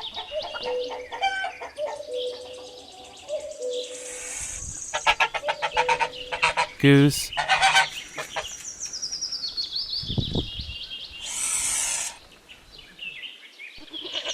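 Geese honking in a short burst of loud calls about halfway through, with high, falling bird chirps repeating before and after.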